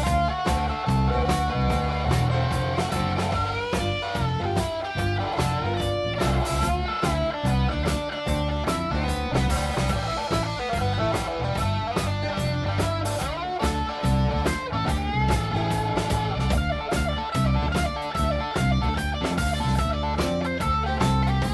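Blues-rock band playing an instrumental break: electric guitar lines that bend in pitch over a steady bass and drum groove, with no singing.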